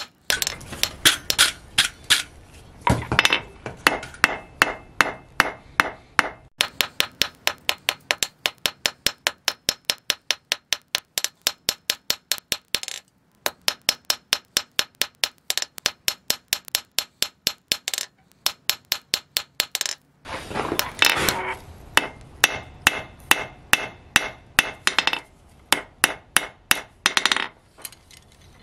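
Hand hammer forging steel on an anvil: rapid, regular blows, several a second, with a light ring, in runs broken by short pauses.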